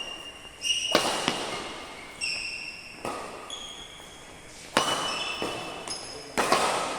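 Sports shoes squeaking in short chirps on an indoor court floor, between about five sharp impacts that ring out in a large hall.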